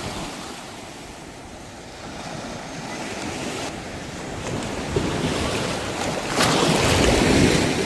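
Sea waves washing onto a beach, with wind buffeting the microphone; the surf swells about five seconds in and is loudest near the end as a wave breaks.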